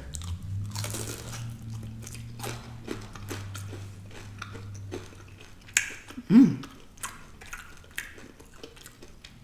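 Close-miked chewing and biting of food, with many small wet clicks and crunches from the mouth. A short low mouth sound stands out about six seconds in.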